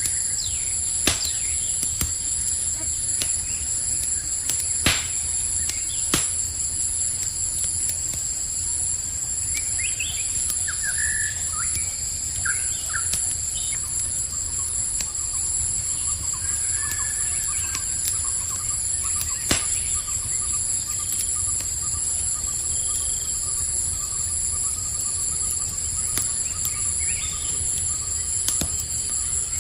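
A steady, high chorus of night crickets, broken by a few sharp pops of a crackling campfire. A few short bird chirps sound near the middle.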